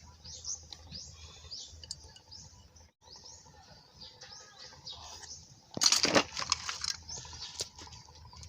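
Small birds chirping over and over, with a loud burst of noise lasting about a second, about six seconds in.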